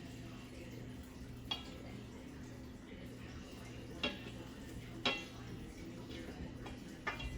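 A kitchen utensil clinking against a dish four times, each a sharp clink with a short ring, over a steady low electrical hum.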